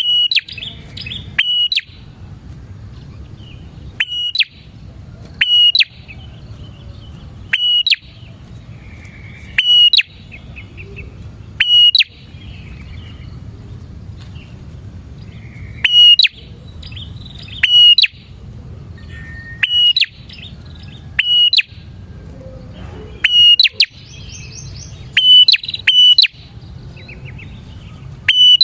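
Prinia (prenjak) calling: loud, sharp, high chirps repeated about every two seconds, often in quick pairs, with softer chattering between them over a low steady background hum.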